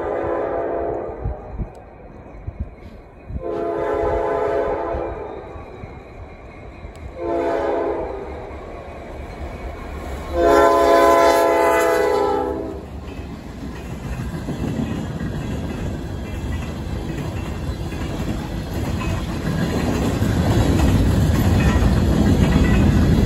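Locomotive air horn sounding the grade-crossing signal: the tail of a long blast, then a long, a short and a final long blast, the standard warning for a road crossing. After the horn, the train's rumble and wheel noise build steadily as it approaches.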